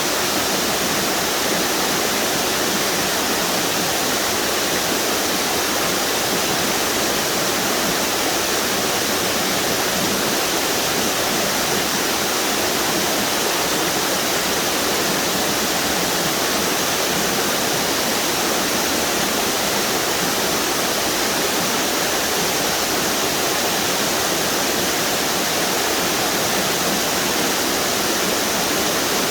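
River waterfalls pouring and splashing in a steady, unbroken rush.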